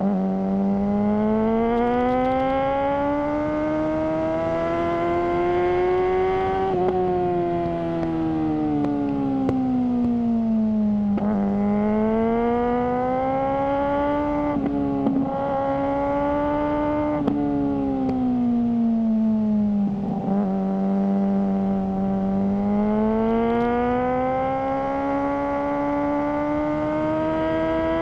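Suzuki GSR600's inline-four engine breathing through a GPR Ghost aftermarket exhaust, its pitch climbing and falling smoothly with the throttle over several long swells, with a few brief sharp breaks in the tone.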